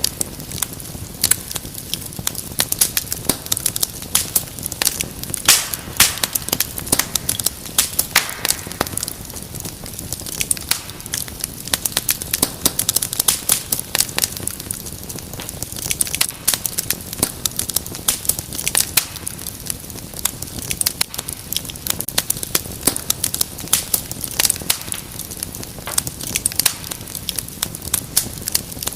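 Wood fire crackling: dense, irregular sharp pops and snaps over a low steady rumble of the flames.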